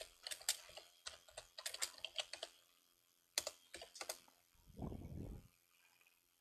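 Quick, irregular clicks like typing or tapping on keys, which stop about two and a half seconds in. A few more clicks follow about a second later, then a short low rumble near the five-second mark.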